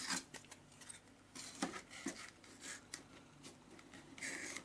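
Pencil drawing short marks along a set-square ruler, faint scratchy strokes mixed with small taps and clicks as the ruler is handled, with a longer stroke near the end.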